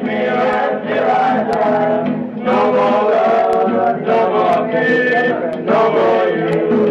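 Group of men singing together in a chant-like song, with a light tick about once a second.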